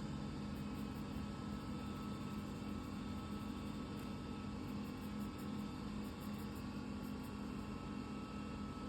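Steady low electrical hum over an even hiss: room tone.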